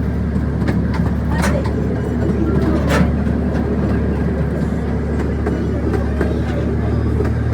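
Zoo miniature tour train running: a steady engine drone with scattered clicks and clacks from the wheels and cars on the track, two sharper clacks about a second and a half and three seconds in.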